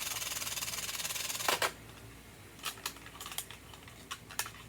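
A toy kitchen set's electronic sound effect, a steady hiss, cuts off with a click about a second and a half in. Light plastic clicks of toy pieces being handled follow.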